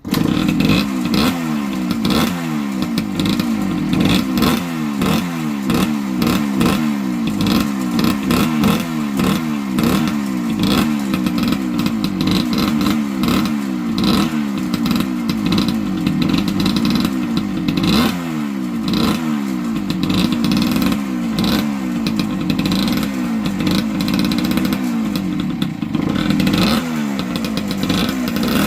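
1978 Yamaha DT100's single-cylinder two-stroke engine running under way, its pitch rising and dropping back again and again as it revs up and eases off.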